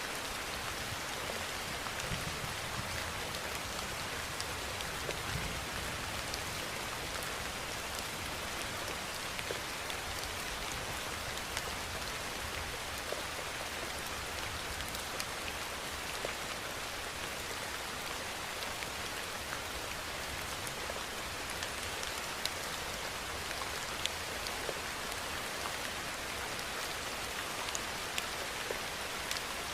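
Steady rain falling, a dense even hiss with many small sharp drop ticks on a surface.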